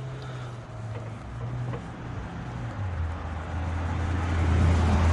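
A motor vehicle's engine running with a low hum that drops in pitch and gets stronger about three seconds in, growing louder toward the end, with a few faint clicks early on.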